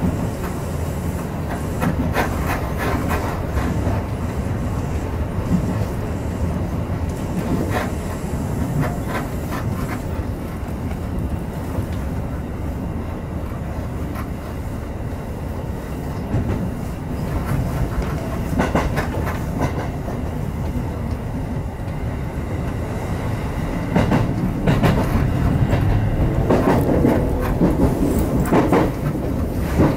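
Electric commuter train running on the Seibu Shinjuku Line, heard from inside the front cab: a steady running rumble with groups of wheel clicks over rail joints. It gets louder with more clacking from about 24 seconds in, as the train runs over the points into the station.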